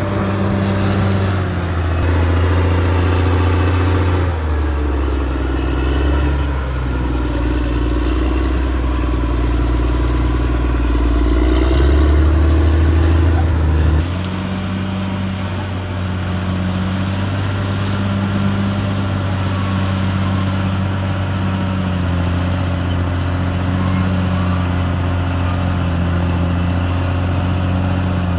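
CAT D6R bulldozer's diesel engine working under load. Its note rises and falls through the first half, then the sound changes abruptly about halfway through and the engine settles into steadier running.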